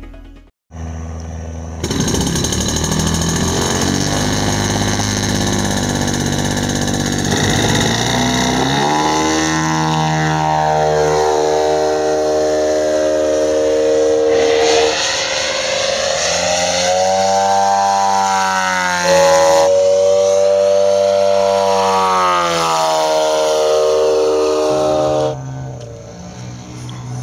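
Engine of a 50% scale SBach RC aerobatic airplane running in flight, its pitch rising and falling repeatedly as the throttle changes and the plane passes by, then growing quieter near the end.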